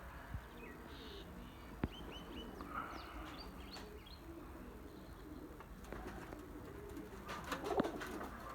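Domestic pigeons cooing softly, with a few short high chirps and a single sharp click about two seconds in.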